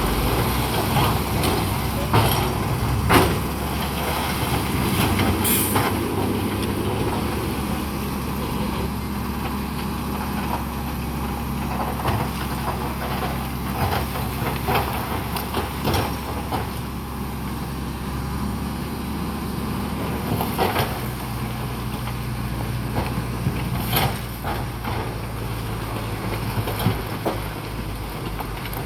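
Heavy diesel earthmoving machinery running steadily, its engine note shifting about two-thirds of the way through. Scattered clanks and knocks, and a short hiss about five and a half seconds in.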